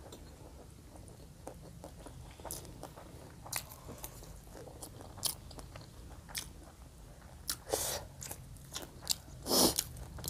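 People chewing and crunching mouthfuls of rice, curry and fried vegetables, with short wet mouth clicks at irregular intervals. A longer, louder crunch comes near the end.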